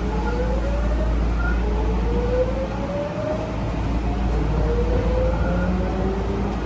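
Tokyu 9000 series train's early Hitachi GTO-VVVF inverter whining under a steady running rumble, heard from inside the car. The whine climbs in pitch several times over as the train accelerates away from the station.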